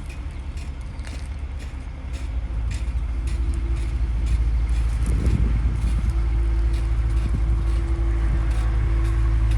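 Low engine-like rumble with a steady hum. It grows louder over the first few seconds and then holds steady, with light clicks scattered through it.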